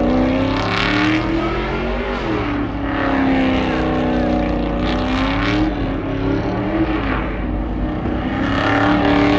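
Truck engine revving up and down several times, its pitch rising and falling, with short bursts of hiss on top.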